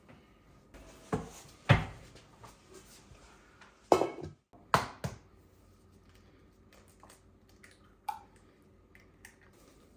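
Kitchen clatter: a handful of separate knocks and clinks of bowls and utensils being handled. The loudest come about two and four seconds in, with a smaller clink near the end.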